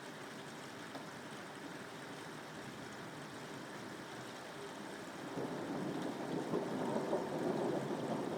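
Steady rain, with a low rolling rumble of thunder building up about five seconds in.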